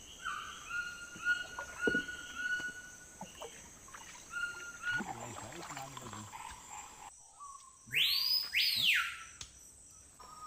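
Tropical forest ambience: a bird repeats short, level whistled notes over a steady high insect buzz. Near the end, two loud, sweeping whistled calls stand out.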